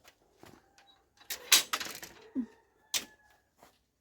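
A series of sharp clicks and knocks, the loudest about a second and a half in, with a short creak about two and a half seconds in.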